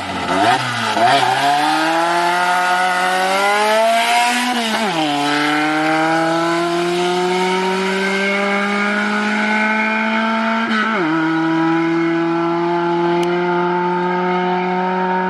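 Car engine pulling hard through the gears. Its pitch climbs steadily, drops sharply about five seconds in and again about eleven seconds in, as at upshifts, then holds nearly steady.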